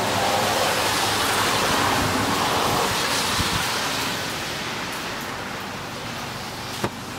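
Steady hiss of falling rain, loudest in the first few seconds and easing off after that, with one sharp tap near the end.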